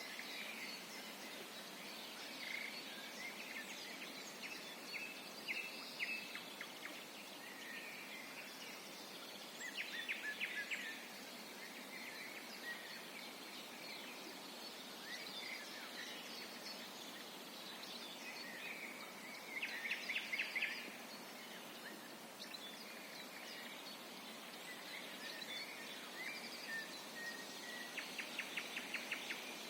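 A chorus of forest songbirds, with overlapping chirps and short songs over a steady background hiss. About every ten seconds, three times in all, one bird gives a loud, rapid trill-like run of notes lasting about a second.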